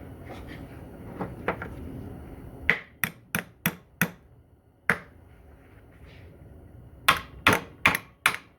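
Sharp metal-on-metal hammer blows: a quick run of five, a single blow about a second later, then four more near the end.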